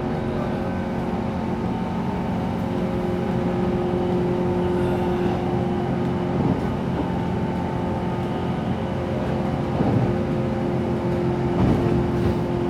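Inside the cabin of a JR West 117 series electric train running along the line: a steady rumble of wheels on rail with a constant hum from the running gear, swelling slightly a few times.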